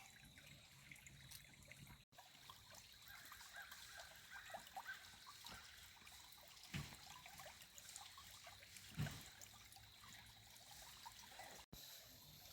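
Faint creek water trickling and bubbling over rocks, with two soft low thumps about seven and nine seconds in.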